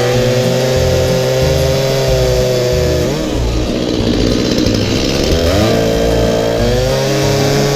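Wood Boss 251 chainsaw running at high revs. Its pitch sags about three seconds in and climbs back a couple of seconds later, as when the chain bites into a log and is then eased off.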